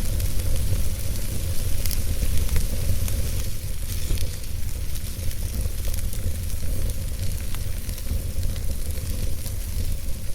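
Wood fire burning in a fireplace: a steady low rumble and hiss of the flames, with scattered small crackles and pops from the burning wood.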